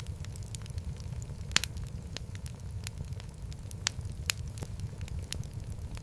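Wood fire in a fireplace crackling: a steady low rumble of burning with sharp, irregular pops and snaps, one louder pop about one and a half seconds in.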